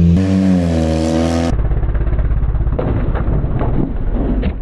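Nissan sedan's engine revving with a strong hum that rises slightly in pitch, then a lower rumbling run with clattering knocks near the end as the car is driven hard over a curb.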